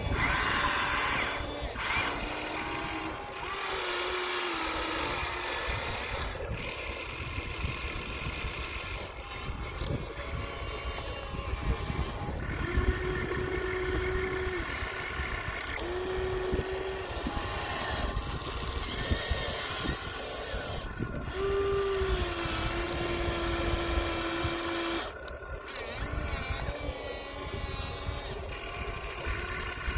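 Small electric motors of radio-controlled Huina excavator models whining as they work. Steady tones come and go in spurts, a few seconds each, as the separate functions start and stop.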